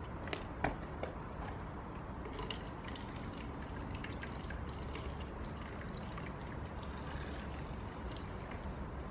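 Burning hoverboard hissing and crackling: a few sharp pops in the first second, then a steady hiss dotted with small crackles.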